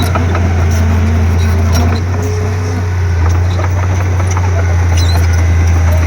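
Komatsu D31P crawler bulldozer's diesel engine running with a steady low drone.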